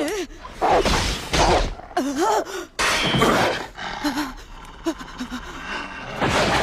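Fight sound effects in an anime: a man's voice grunting and groaning in strain and pain, broken by three loud, noisy stretches of struggle and impact.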